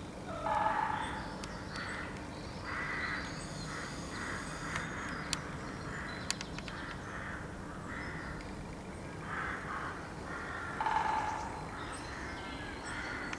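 A bird of unidentified species calling over and over, short calls about a second apart. The loudest calls come about half a second in and again about eleven seconds in.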